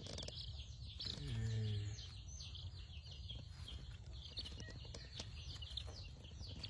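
A brooder full of young chicks peeping continuously, many short high chirps overlapping. About a second in, a person gives a brief low hum.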